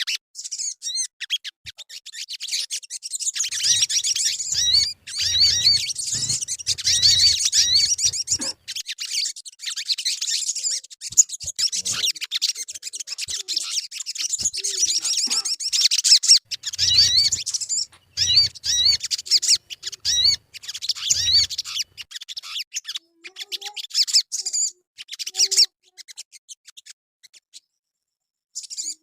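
Sogon bird singing: dense, rapid, high-pitched chirps and twittering trills, thinning out near the end, with a few brief low thumps in between.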